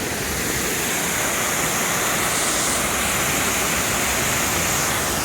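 Creek water rushing steadily, an even roar that swells slightly in the middle.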